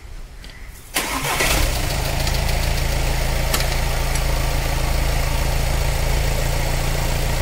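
A Volkswagen diesel engine starts about a second in and settles into a steady idle. It is being started with the freshly replaced fuel filter's bleed nipple open, so air is being purged from the fuel system.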